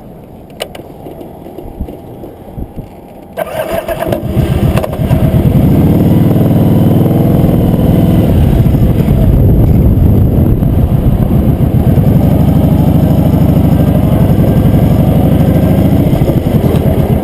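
Motorcycle engine starting: a few clicks, then it fires about three seconds in, picks up over the next two seconds and runs loud and steady.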